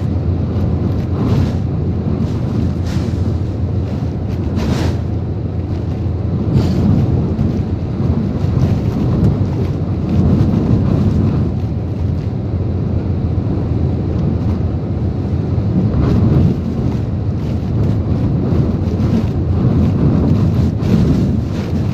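Typhoon wind and rain: a heavy, continuous low rumble of wind buffeting the microphone, swelling in gusts, with a few brief sharp cracks or knocks.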